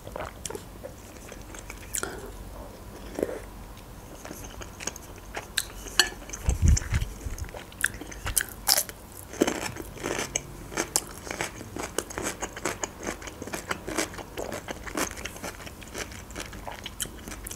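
Close-miked mouth sounds of a person eating borscht: chewing, with many small wet clicks and smacks that come thicker in the second half. A dull low thump about seven seconds in.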